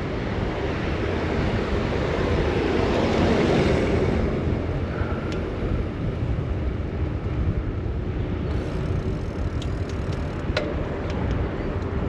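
Wind rushing over the microphone with road traffic underneath, during a bike ride on city streets. The rush swells to its loudest about three seconds in, and a few light clicks come near the end.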